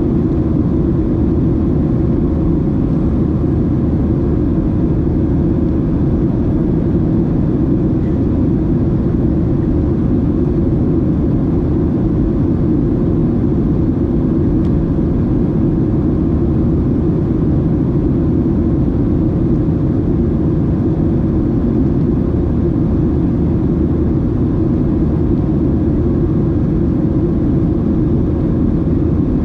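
Steady cabin noise inside a Boeing 737-700 with its CFM56-7B engines running: an even, unchanging low roar of engines and airflow, with a faint steady hum above it.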